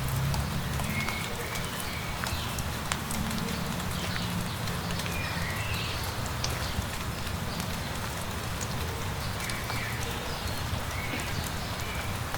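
Steady light rain falling, with scattered drops ticking, and small birds giving short chirps now and then.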